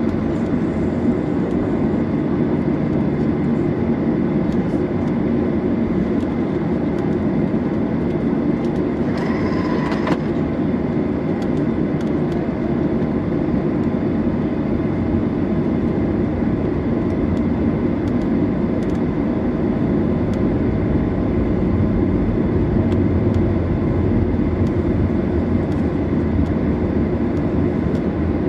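Steady cabin rumble of a Boeing 737-800 on the ground before takeoff, its CFM56-7B engines running at low power. About nine seconds in, a brief high tone sounds for about a second.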